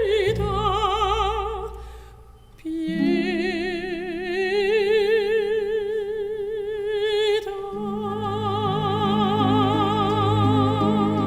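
Operatic solo singing with a wide vibrato: a short phrase, then a long held note, joined by low sustained accompaniment about two-thirds of the way through.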